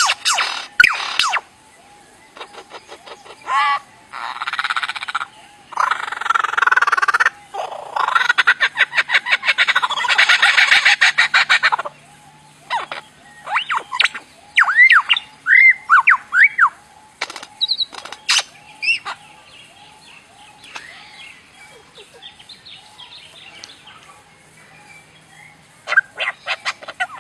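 A songbird singing a varied mimicking song: harsh, buzzy chattering phrases, then a quick run of clear rising whistles, then fainter scattered notes.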